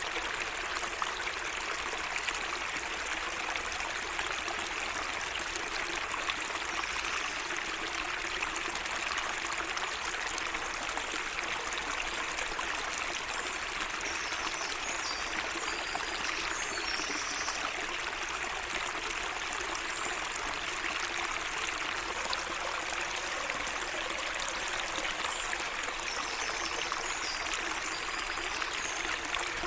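Water running steadily in a small garden waterway, an even trickling rush, with a few faint high chirps of birds twice, around the middle and near the end.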